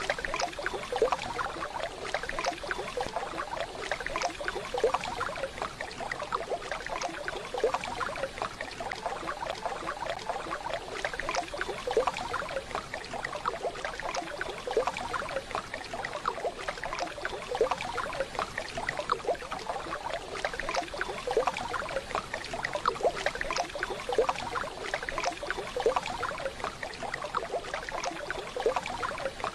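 Waterfall water rushing and splashing in a steady, dense spatter.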